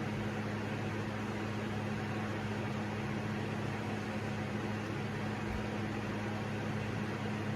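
SMC Laguna ceiling fan from 1987 running on its low speed, a steady hum with an even rush of air; a portable fan is also running and blends into the whir.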